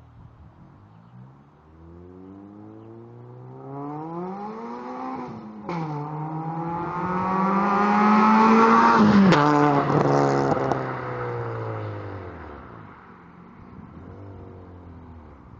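Citroën Saxo VTS 1.6 16-valve four-cylinder through a de-catted straight-through stainless exhaust, accelerating hard with a quick gear change about six seconds in, rising to its loudest near nine seconds. The pitch then drops sharply and the sound falls away as the car passes and pulls off.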